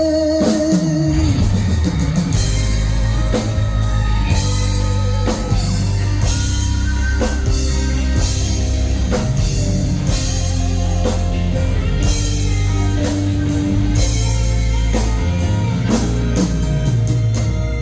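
Live rock band playing an instrumental interlude: drum kit, bass and guitar at full loudness. A held sung note slides down and ends in the first second or so.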